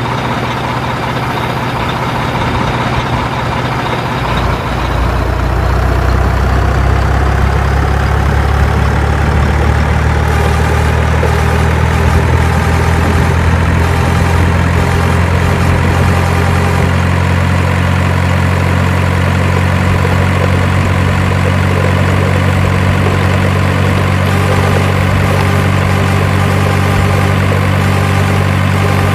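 Heavy truck engine running steadily. Its low drone grows louder and fuller about four seconds in, and the pitch creeps slowly upward over the next several seconds.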